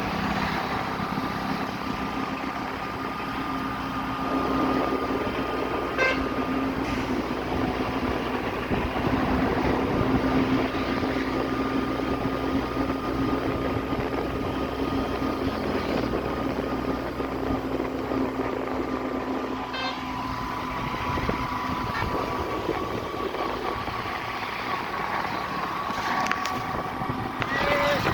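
A vehicle running steadily along a road: a continuous engine hum with road noise, and a few brief sharper sounds about six and twenty seconds in and near the end.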